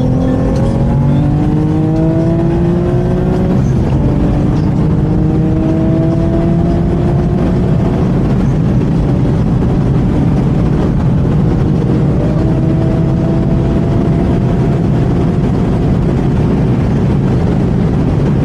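Twin-turbocharged Infiniti G37's V6 engine under hard acceleration in a full-throttle pull. The engine note climbs steadily in pitch, drops at an upshift about four seconds in, and climbs again. A further rising pull comes in the second half.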